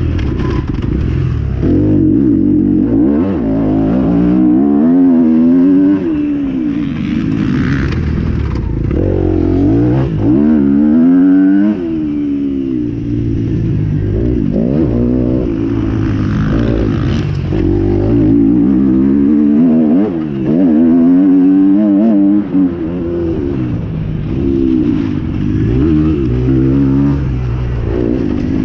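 Motocross motorcycles racing, several engines heard at once, revving up and down over and over as they accelerate and shift.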